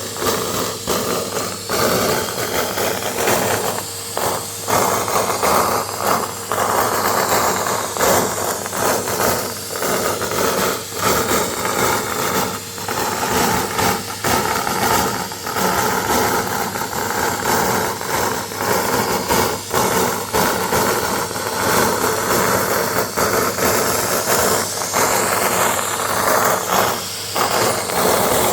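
Vacuum cleaner running steadily as it sucks up confetti, with a steady motor whine and frequent brief dips in loudness. Twice its high pitch slides up and back down.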